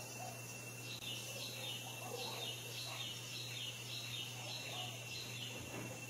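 A bird calling a series of short, falling chirps, about two a second, starting about a second in and stopping shortly before the end, over a steady high-pitched whine.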